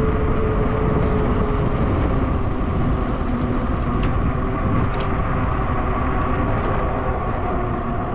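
Steady rushing noise of a fat-tire e-bike riding along pavement: wind on the microphone and tyre roll, with a faint whine that shifts slightly in pitch and a few light ticks.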